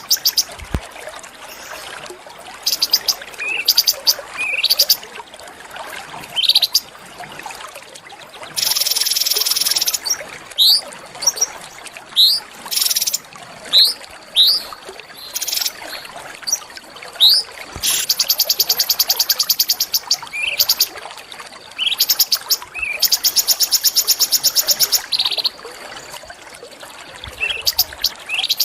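Small songbird singing: sharp, short upward-sweeping chirps repeated every second or so, broken three times by a fast, evenly pulsed trill lasting about two seconds.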